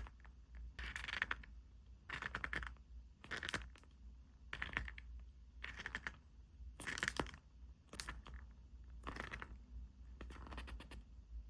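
Short rustles and clicks of paper and plastic packaging being handled, about one a second.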